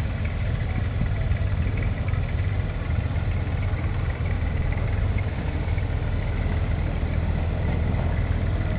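Old farm tractor engine running at a steady idle, a low even rumble with no revving.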